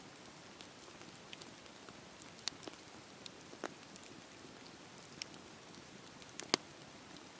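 Wood campfire crackling: a steady soft hiss with a handful of irregular sharp pops, the sharpest about six and a half seconds in.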